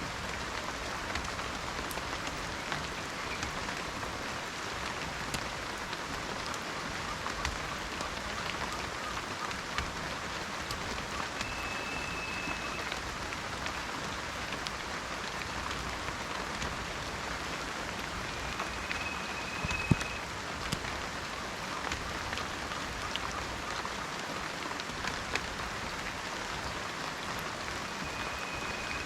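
Steady rain falling, with single drops ticking close by and one louder drop with a dull thud about two-thirds of the way through. A short, faint high whistle sounds three times, about eight seconds apart.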